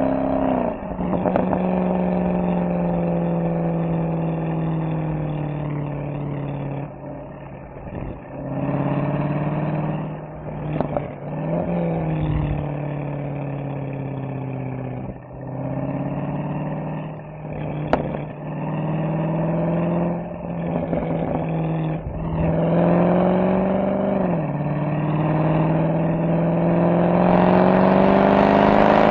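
Mercedes-AMG SL63's V8 exhaust under way. Its pitch drops sharply a few times as the gearbox shifts up. In the middle come quieter stretches off the throttle, broken by short rev blips and one sharp pop.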